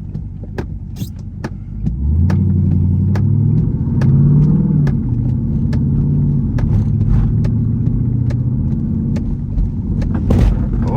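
Jeep Grand Cherokee Trackhawk's 6.2-litre V8, running with its supercharger removed, heard from inside the cabin. About two seconds in it picks up and accelerates, rising in pitch, then eases off and settles to a steady cruise. A regular ticking, about two clicks a second, runs under it throughout.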